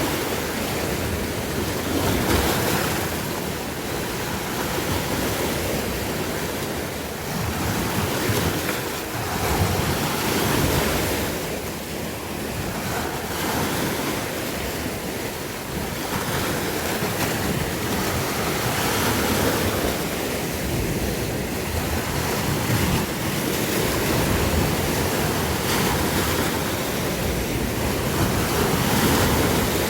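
Sea waves washing onto the shore, a steady rush of surf that swells and ebbs every few seconds, with wind buffeting the microphone.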